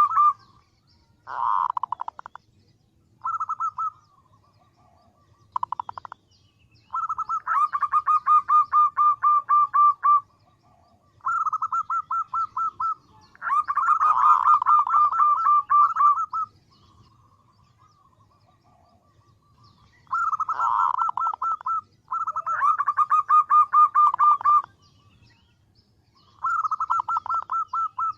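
Female zebra dove (perkutut) calling: bouts of a rapid pulsed trill, one to three seconds each, repeated with short pauses. This is the female's call that draws males in, used as a lure for trapping.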